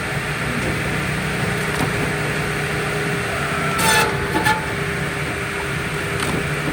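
An engine running steadily, with a brief high squeal and clatter about four seconds in.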